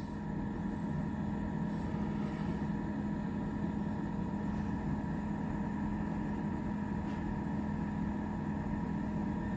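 Steady machine hum with a constant low tone and a fainter higher one, unchanging throughout.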